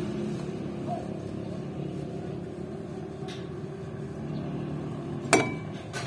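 A steady low mechanical hum, like an engine running, under a sharp metallic clink of a tool on metal about five seconds in, with a brief ring. A fainter click comes near the middle.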